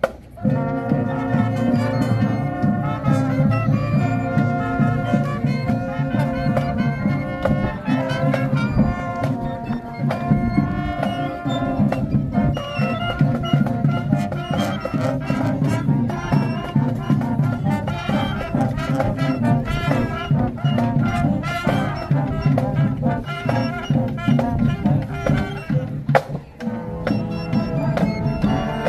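High school marching band playing a dance tune: massed brass with heavy low horns over drums keeping a steady beat, entering on a drum lead-in and dropping out briefly near the end.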